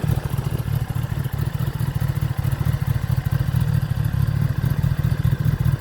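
Kawasaki ZX-10R's inline-four engine running steadily through an Akrapovic exhaust, a deep, fast, even exhaust pulse with no change in revs.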